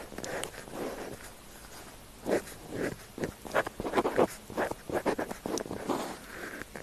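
Pen tip scratching across paper in quick writing strokes, sparse at first and then a dense run of short strokes from about two seconds in.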